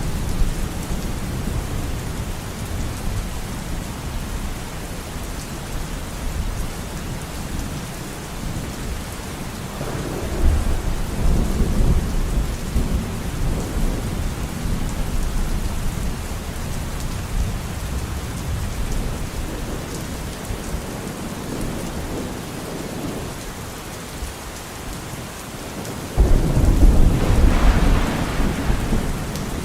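Steady rain hissing down, with low rolls of thunder: one about ten seconds in and a louder one that breaks suddenly near the end.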